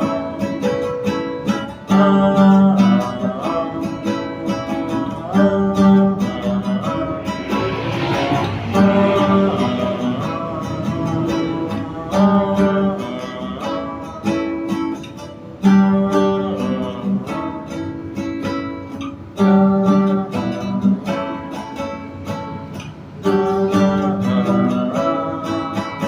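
Instrumental music on guitar, strummed and plucked chords in a steady repeating pattern that comes round about every three and a half seconds.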